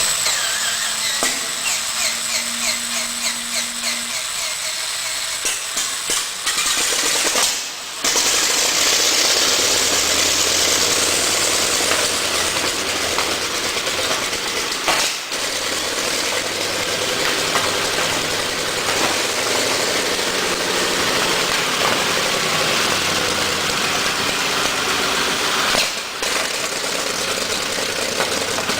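Continental R975 radial engine from a Sherman tank, rapid regular ticking at first, then running steadily with a low drone from about eight seconds in.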